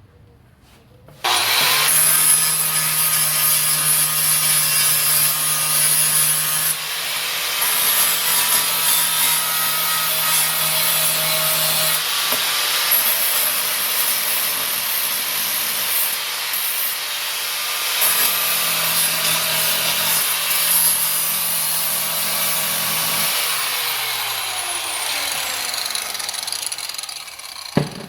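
An electric grinder starts suddenly about a second in and grinds steadily against the steel rear bumper of a 1949 Chevrolet Deluxe, cleaning up the repair: a loud, harsh grinding noise over the motor's hum. Near the end the motor is switched off and winds down with a falling pitch.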